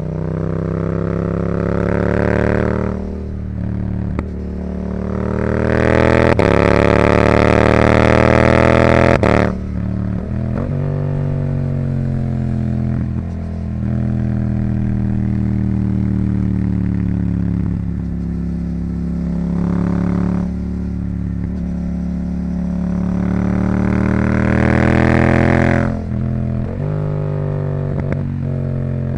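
Yamaha R7's 689 cc parallel-twin engine through a Yoshimura R77 exhaust, pulling hard in rising-pitch accelerations and backing off between them. The longest, loudest pull cuts off sharply about nine seconds in, then the pitch falls away as the bike slows; another pull rises near the end.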